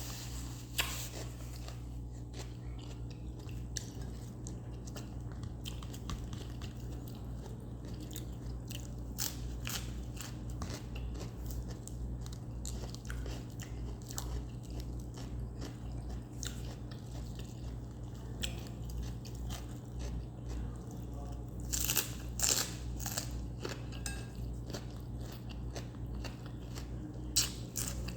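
Close-miked chewing and crunching of crisp raw vegetables, a steady run of small wet crunches with a few louder bites about 22 seconds in and again near the end. A steady low hum sits underneath.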